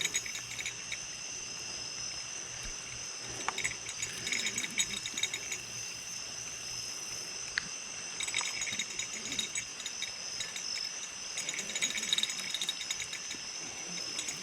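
Night insect chorus with steady, high-pitched trilling, broken by scattered bursts of rattling clicks.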